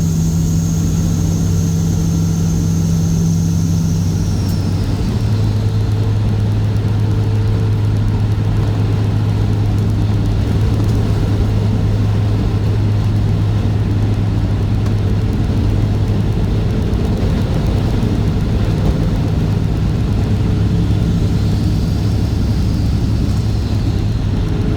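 Straight-piped Cat C15 ACERT diesel of a Kenworth W900 running steadily. About four to five seconds in the engine note drops to a lower pitch and a high whistle fades away with it; near the end a high whistle rises again.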